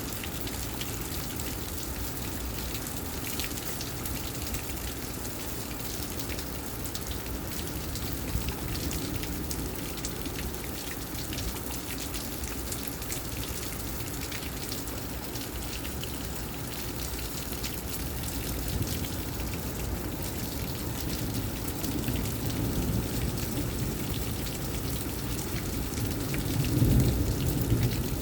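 Heavy rain pouring during a severe thunderstorm: a steady hiss of rain with scattered drop ticks. A low rumble of thunder swells near the end.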